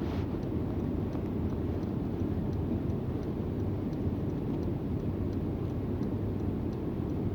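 Steady low rumble of an idling vehicle engine, with a faint regular ticking about one and a half times a second.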